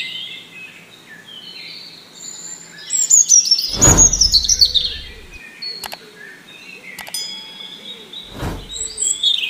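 Birds chirping and twittering, with a dense run of quick falling chirps about three seconds in. A whoosh sweeps through about four seconds in and again near the end.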